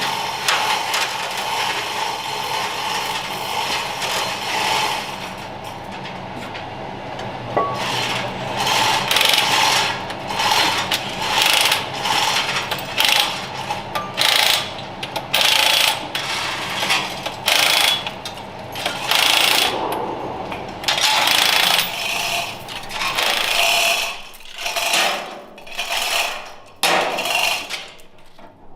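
A power tool run in many short bursts of about half a second to a second each, after a stretch of steady hum.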